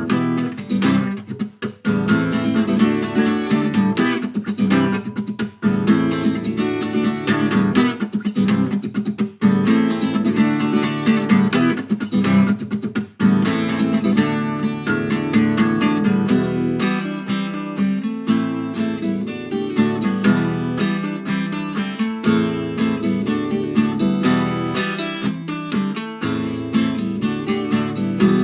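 Acoustic guitar strummed in steady chords, an instrumental break between sung verses.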